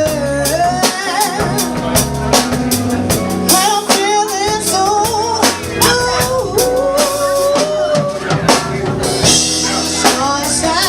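A live band playing, with a drum kit keeping a steady beat with rimshots and bass drum under a bass line and a wavering melody.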